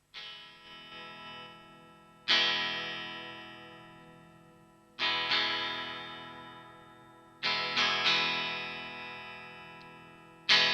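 Jolana Tornado electric guitar being tested: a few soft notes, then full chords struck about every two and a half seconds, each left to ring out and slowly fade.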